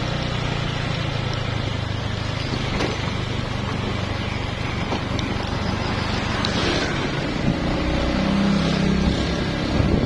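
A motor vehicle's engine running steadily under a constant rush of road and wind noise.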